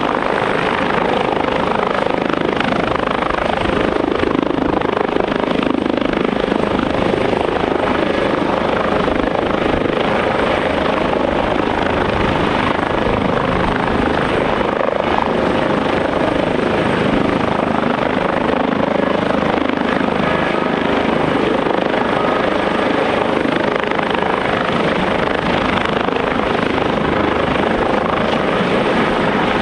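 Airbus H145 helicopter with its twin turboshaft engines and rotors running loud and steady, with no rise or fall in level throughout.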